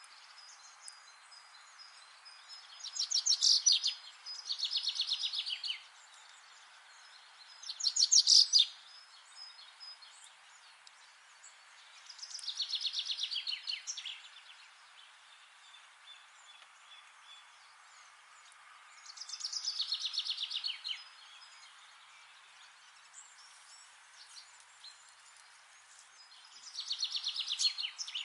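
Songbird singing: six rapid trilled phrases, each a second or two long, spaced several seconds apart, over a faint steady background hiss.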